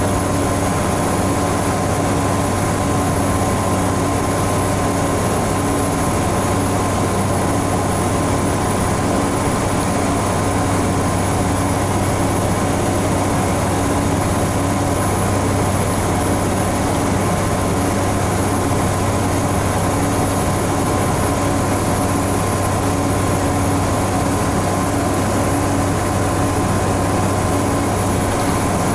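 Scania N94UB Omnicity single-deck bus heard from inside the passenger saloon, cruising at a steady speed: a constant low engine and drivetrain drone with road noise. There are no gear changes, and a thin high whine runs throughout.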